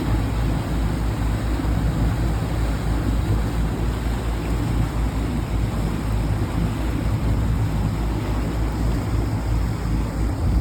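A boat motor runs steadily while underway, with wind and water noise on the phone microphone.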